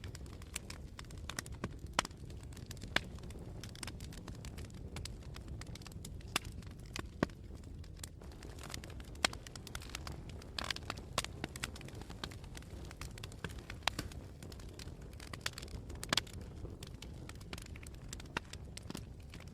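Campfire burning: irregular sharp pops and crackles, some louder than others, over a steady low rumble.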